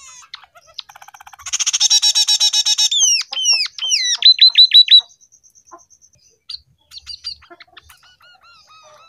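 Scaly-breasted munia trained on canary song, singing: a fast rattling trill about a second and a half in, then a run of quick downward-sweeping whistles that ends about halfway through, followed by a few soft scattered notes.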